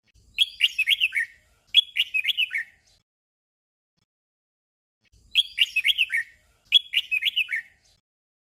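Red-whiskered bulbul song: a short doubled phrase, two quick runs of bright warbling notes back to back. It sounds again, identically, after a silent gap of about two seconds.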